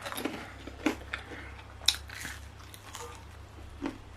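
Someone biting and chewing oven-toasted pita bread, with irregular crisp crunches.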